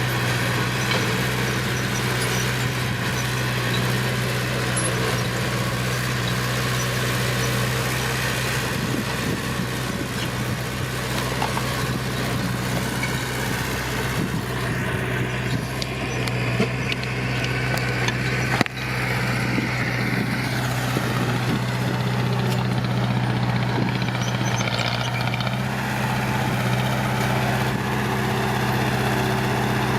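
Diesel engine of heavy earthmoving machinery running steadily at an even, low pitch, with a short knock a little after halfway.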